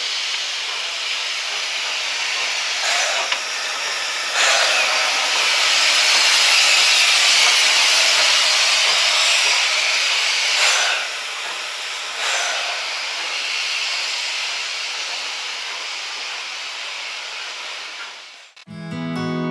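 Steam locomotive venting steam: a steady hiss that swells about four seconds in and eases after about eleven, with a few brief sharper surges. The hiss cuts off just before the end.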